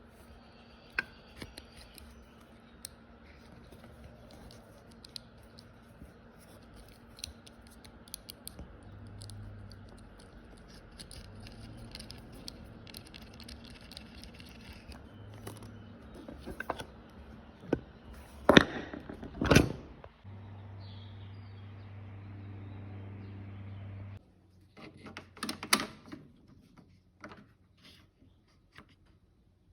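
Keurig coffee maker being handled: scattered light plastic clicks and knocks, two loud knocks about two-thirds of the way through, then a steady low hum for about four seconds that cuts off suddenly, followed by more clattering.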